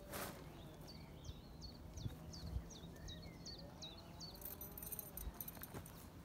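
A small songbird singing a quick series of about ten short, sharp, repeated high notes. A brief rustle comes right at the start.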